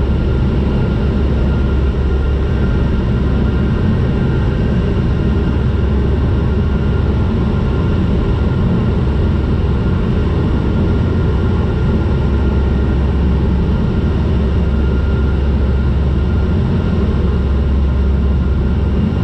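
Turboprop airliner's engines and propellers droning steadily in flight, heard from inside the cabin, with a few faint steady high tones above the low drone.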